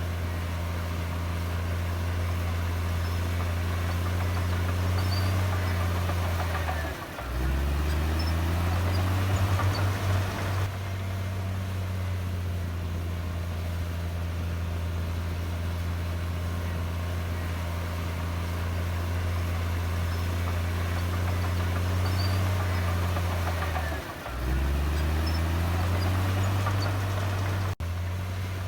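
Diesel engine of a Komatsu D58E bulldozer running steadily under load. Its pitch drops briefly and climbs back twice, with a rattling stretch after the first dip.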